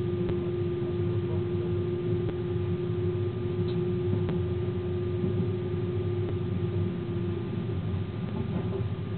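Train running along the track, heard from the locomotive cab: a steady low rumble with a constant droning tone that drops slightly in pitch near the end, and a few faint clicks.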